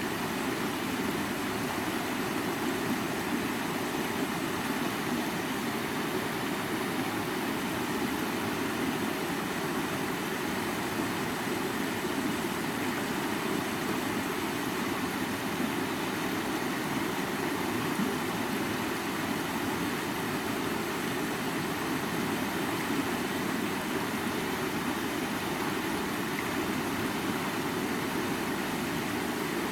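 River water flowing: a steady, even rush that holds the same level throughout.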